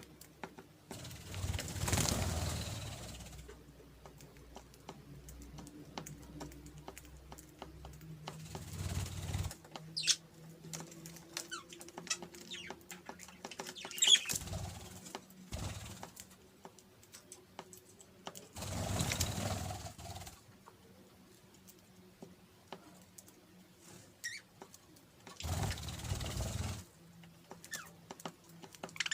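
Pet budgerigars chirping now and then in short high calls, with several bursts of rustling noise and scattered light clicks.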